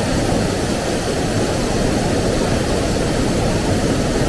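Waterfall's steady, loud rush of falling water, strongest in the deep range.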